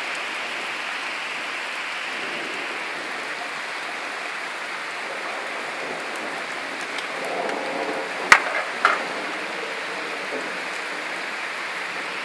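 Steady rain hissing, with two sharp clicks about eight seconds in, a little over half a second apart.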